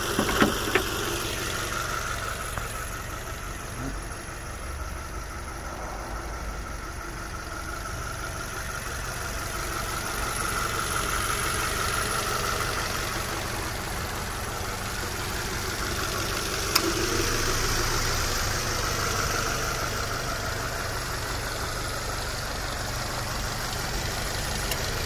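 Subaru BRZ's 2.0-litre flat-four boxer engine idling steadily, heard over the open engine bay. A couple of sharp metal clicks right at the start come from the hood prop rod being set in place.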